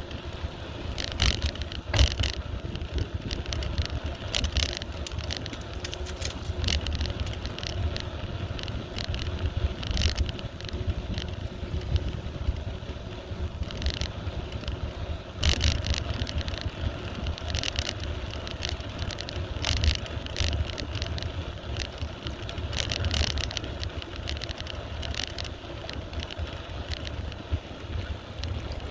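Bicycle riding along a road: a steady low rumble of wind on the microphone, with frequent clicks and rattles from the bike jolting over the surface.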